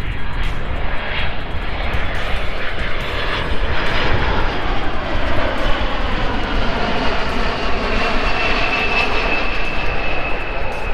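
Boeing KC-46 tanker's twin turbofan engines passing close on a touch-and-go: a loud, steady jet noise whose tones bend as it goes by, with a high whine that slowly falls in pitch in the second half. Wind buffets the microphone underneath.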